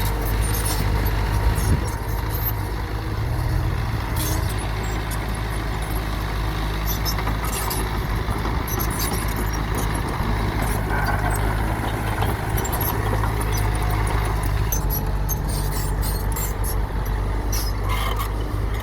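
Machinery running: a steady low engine-like drone, with scattered clicks and rattles throughout.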